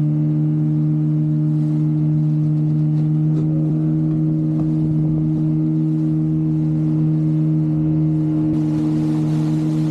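A boat engine running at a steady speed, giving an even, unchanging hum.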